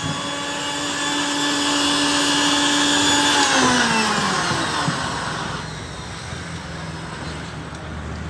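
Electric blender motor running at a steady high whine while blending a banana milkshake, then switched off about three and a half seconds in, its pitch falling as it spins down.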